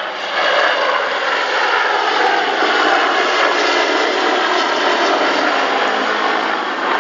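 Attack helicopter flying overhead: a loud, steady rushing engine and rotor noise that swells slightly about half a second in.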